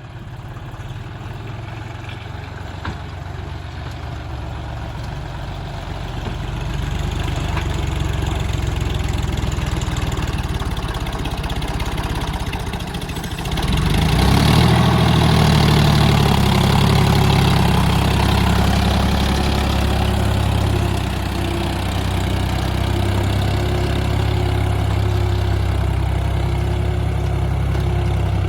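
John Deere 3510 tractor's diesel engine running, growing louder over the first several seconds. About halfway through, its note shifts and it runs louder and deeper for the rest of the time.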